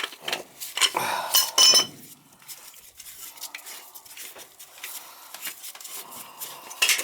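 Metal parts and hand tools clinking and knocking during work on a gas furnace's valve: several sharp clinks, some ringing briefly, in the first two seconds, then quieter scattered taps.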